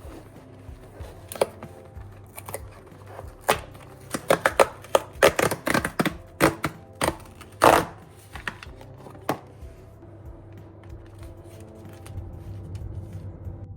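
Irregular sharp clicks and knocks, several close together between about four and eight seconds in, over a low steady hum.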